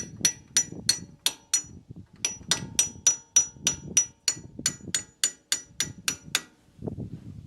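Steel hammer blows on metal, about three a second, each with a bright ringing after the strike, in two runs separated by a short pause about two seconds in; the blows stop near the end.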